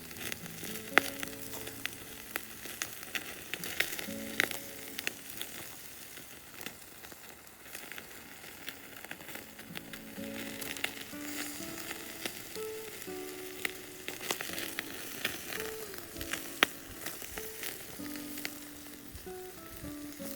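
Wood fire crackling and sizzling, with sharp pops scattered irregularly throughout. Soft background music with slow held notes plays underneath.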